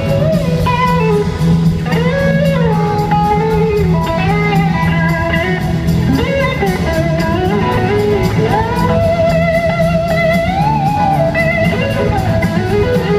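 Live blues band playing, an electric guitar carrying a lead line of bending, gliding notes with vibrato over a steady bass.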